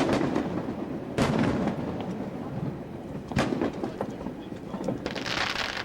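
Aerial fireworks shells bursting: sharp booms with echoing tails at the start, about a second in and a little over three seconds in, then a brief hiss near the end.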